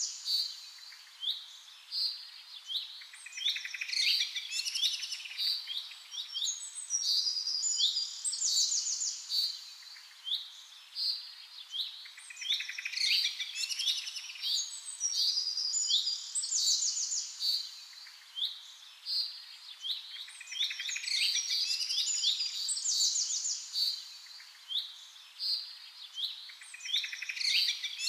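Several small birds chirping and trilling in quick, high-pitched calls. The same run of chirps comes back about every eight to nine seconds.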